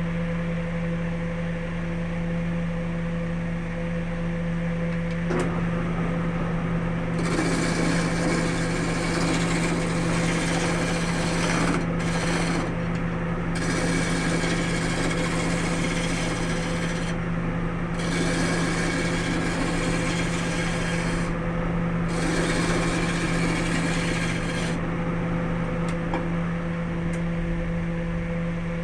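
Wood lathe motor running with a steady hum, while the spinning wood is worked against in four passes of a few seconds each, with short breaks between them.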